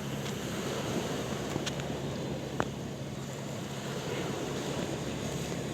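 Sea waves washing with wind noise, over a steady low hum, with one sharp click about two and a half seconds in.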